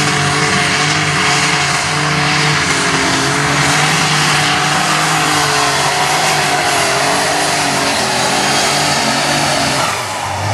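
An 8,000 lb heavy super stock pulling tractor's engine running hard and steady under full load with a thin high whine over it, easing off near the end.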